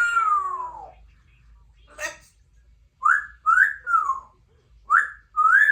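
Congo African grey parrot whistling: a drawn-out falling call like a cat's meow at the start, then a run of short whistles that each rise and fall, about five of them in the second half.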